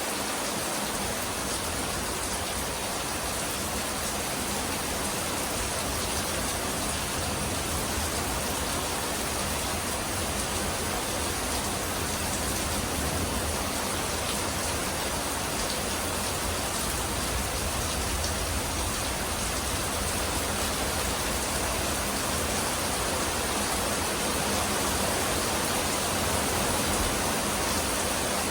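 Steady rain falling, an even hiss that holds without change and with no thunderclaps.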